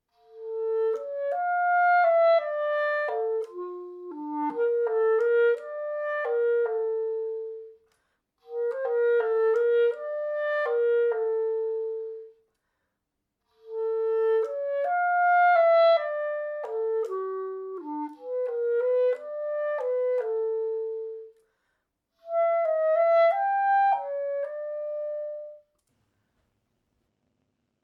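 A solo woodwind instrument, clarinet-like, playing a slow, stepwise melody in four phrases separated by short pauses.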